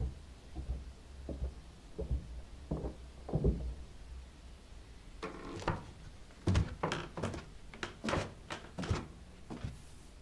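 Footsteps coming down a staircase: soft, dull thuds at first, then from about five seconds in louder, sharper steps in quicker succession as they come closer.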